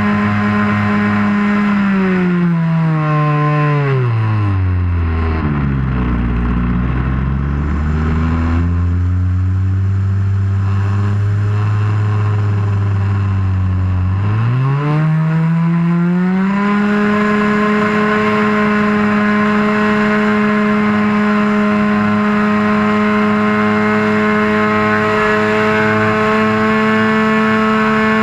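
Model airplane engine heard from on board the plane, running at a steady high pitch. It is throttled back over a few seconds to a low drone, held there, then opened up again about fourteen seconds in and held steady at high pitch.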